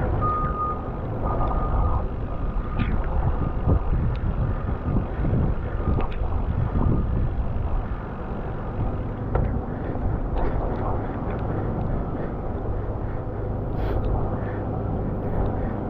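Wind buffeting the microphone and road and traffic rumble on a bike ride. A high beeping tone sounds on and off through the first few seconds.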